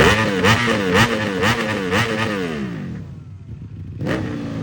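Ducati Panigale V4S's V4 engine revved in a string of quick throttle blips, the revs rising and falling about twice a second. The revs then drop away, and a final blip comes near the end.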